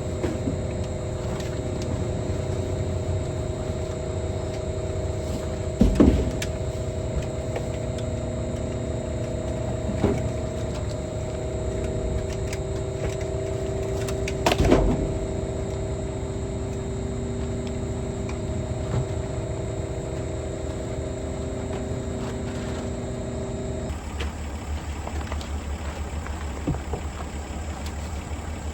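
Steady engine and road drone of a vehicle being driven, with a few short knocks and rattles. About a second apart at three points there are sharp bumps, and near the end the higher hum of the engine drops away, leaving a lower rumble as the vehicle slows.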